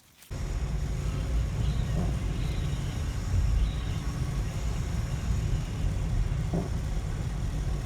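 Steady low road and engine rumble heard from inside a moving car, starting suddenly just after the beginning.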